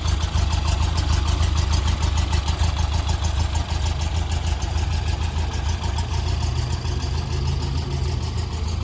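1963 Porsche 356B's air-cooled flat-four engine idling steadily with an even firing rhythm, warming up after a cold start.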